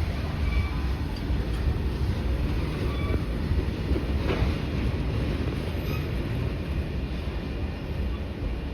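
Electric train running on the rails: a steady, loud low rumble of wheels on track, with a few faint short squeaks.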